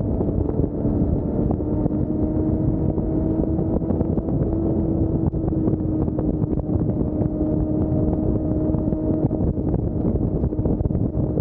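Motorcycle engine running at a steady highway cruising speed, its note holding even, under heavy wind rush on the microphone.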